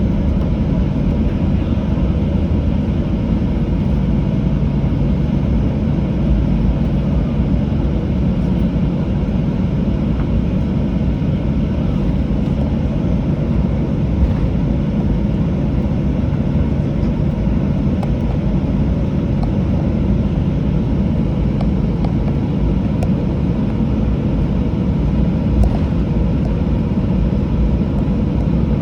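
Steady cabin noise inside a Boeing 737-800: a low rumble of its CFM56-7B engines and airflow, with no speech.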